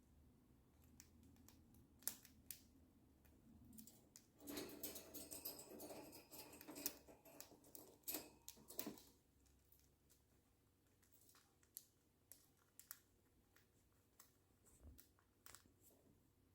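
Faint, scattered clicks and taps from a cockatiel playing on its own, its beak and feet working at toys or the cage, with a denser run of clicking and rustling in the middle.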